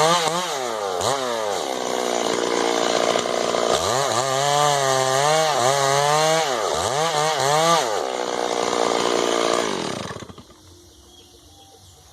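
Two-stroke chainsaw cutting wood, its engine pitch repeatedly dipping and recovering as the chain bites under load. About eight seconds in the revs fall away and the engine stops a couple of seconds later.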